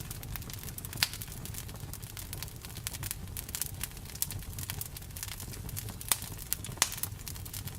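Wood fire crackling, with frequent small snaps and a few louder pops over a steady low rumble of the flames.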